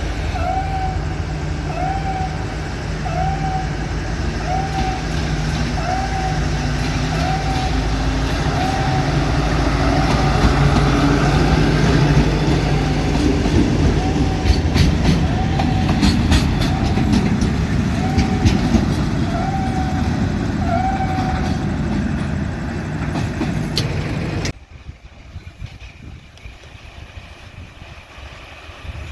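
A diesel-hauled train passing close by, its engine running with wheel clicks on the rail joints, while a short repeating chime sounds about once a second. Near the end the sound cuts abruptly to a much quieter low rumble.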